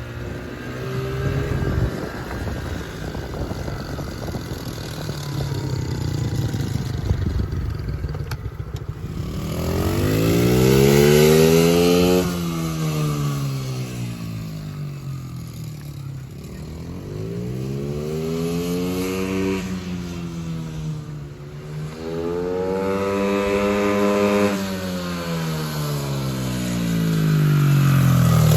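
Small motorcycle engine running as it is ridden, low and uneven at first, then revving up and easing off in three long rises and falls in pitch, the first about a third of the way in.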